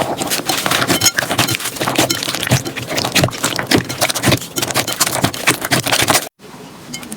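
Hands squishing and poking slime, making a dense run of sticky clicks, pops and crackles. It cuts off abruptly a little after six seconds, and after a brief silence a quieter stretch of the same kind of sound begins.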